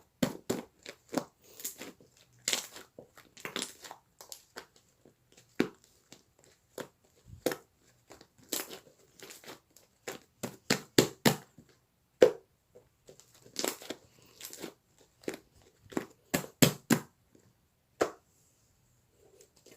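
Slime mixed with shaving foam being squeezed and pressed by hand, giving irregular crackling clicks and squelches.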